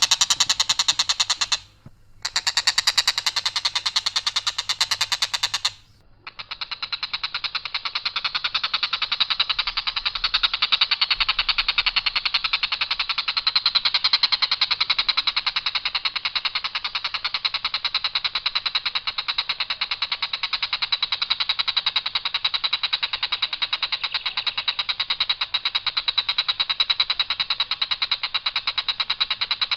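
Tengkek buto kingfisher calling: a harsh, rapid rattling trill held for long stretches, breaking off briefly about two seconds in and again about six seconds in.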